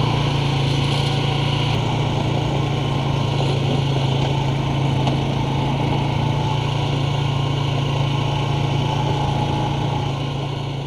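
ATV engine running at a steady pace while riding along a trail, a constant low drone that begins to fade out at the very end.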